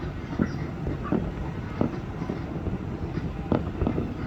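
Aerial fireworks bursting: irregular bangs and pops, about two or three a second, over a steady low rumble, with the loudest bang near the end.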